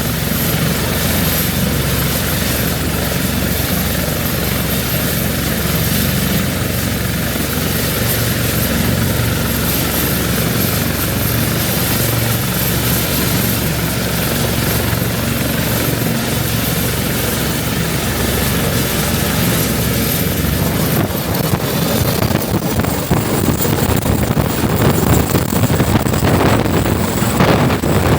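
Westland Lynx helicopter running, its twin turboshaft engines and rotors making a steady, loud sound with a high turbine whine. About 21 seconds in, the whine rises in pitch and wind starts buffeting the microphone.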